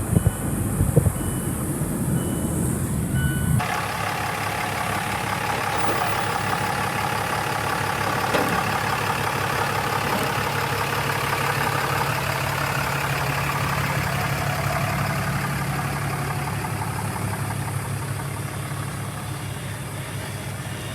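A reversing alarm beeping about once a second over a running vehicle. About three and a half seconds in, the sound changes suddenly to a vehicle engine running steadily.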